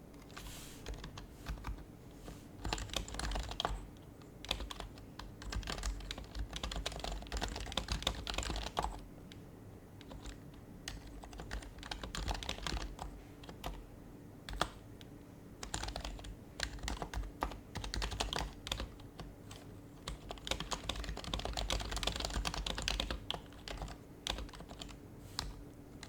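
Typing on an HHKB Professional HYBRID Type-S keyboard, its silenced Topre switches giving soft, muted clacks. The keystrokes come in quick runs of several seconds, broken by short pauses, over a faint steady hum.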